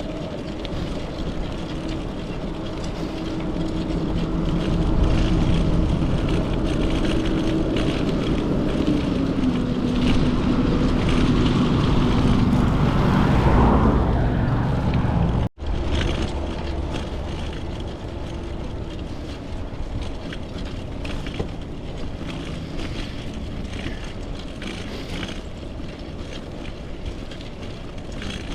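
Tyre and wind noise of a bicycle rolling along a paved road. In the first half a motor vehicle's hum grows louder and slides down in pitch as it passes. About halfway the sound cuts out abruptly and quieter road noise resumes.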